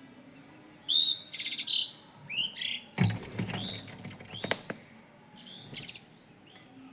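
Birds chirping close by: a loud rapid, buzzy call about a second in, then a run of short chirps that fall in pitch, with a brief low fluttering rush about three seconds in, over a faint steady hiss of distant rain.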